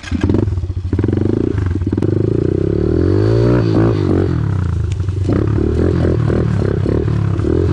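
Small single-cylinder dirt bike engine running, revved up once about three seconds in and blipped up and down several times near the end.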